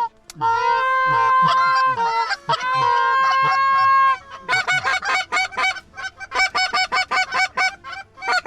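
Canada goose honking: long drawn-out calls for the first few seconds, then a fast run of short, clipped honks and clucks.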